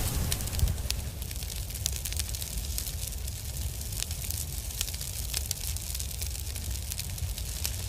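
Steady crackling and sputtering, like a burning firework fuse, over a low outdoor rumble, with no bang.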